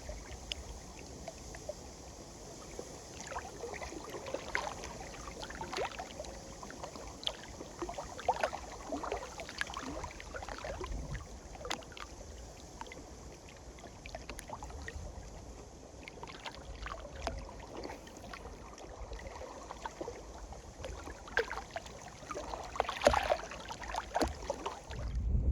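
Small waves lapping and splashing irregularly against the lakeshore, with wind rumbling on the microphone.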